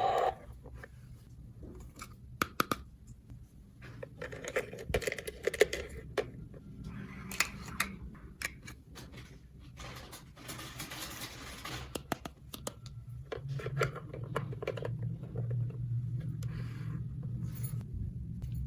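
Small plastic toy pieces being handled, with sharp clicks, taps and scrapes at irregular intervals and a stretch of rustling near the middle.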